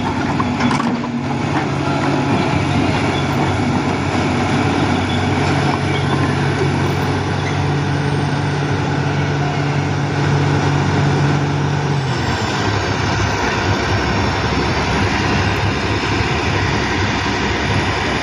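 A heavy vehicle's engine running steadily, its low note changing about twelve seconds in.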